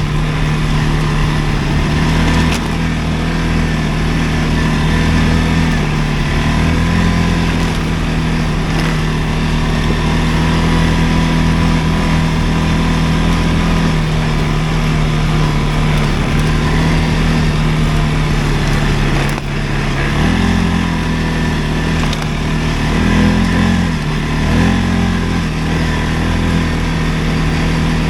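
CFMoto ATV engine running at a steady speed, its revs rising and dropping briefly a few times in the last third.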